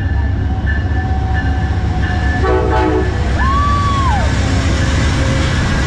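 Train at a station: a steady low rumble, with a brief horn-like blast about two and a half seconds in, followed by a high squeal that rises and falls off.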